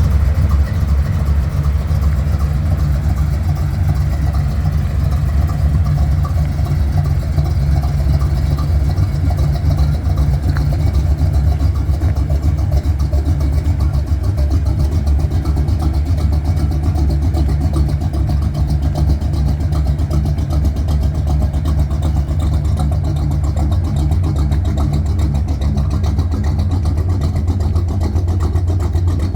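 A 1970 Chevrolet C10 pickup's engine running steadily with a deep, even rumble.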